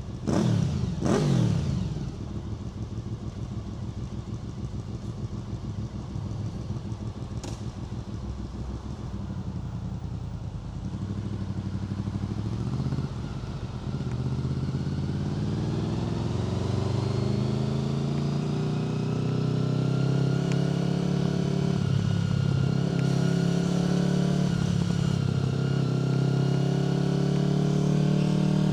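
Honda VFR800 FI's 90-degree V4 through a Black Widow aftermarket exhaust: two quick throttle blips falling away at the start, then about ten seconds low and steady as at idle, then pulling away with the revs rising in steps through several gear changes.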